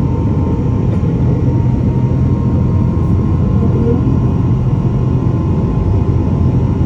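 Boeing 777-300 jet engines and airflow heard inside the passenger cabin: a loud, steady low roar with a faint steady whine.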